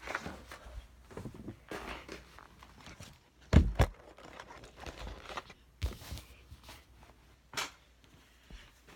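A sheet of sketch paper being handled and folded: scattered rustles and creases, with a dull thump about three and a half seconds in and sharper crackles near the end.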